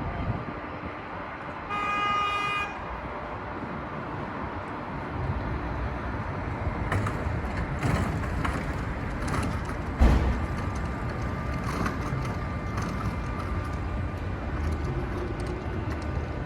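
Steady outdoor background noise with a single short vehicle-horn honk about two seconds in and a sharp thump about ten seconds in.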